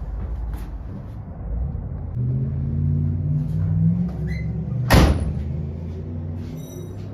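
A low engine-like hum that rises and falls, like a vehicle running, with one sharp knock about five seconds in.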